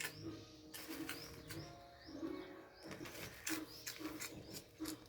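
Birds calling: low coos repeating about twice a second under short, rising high-pitched chirps, with a few sharp clicks.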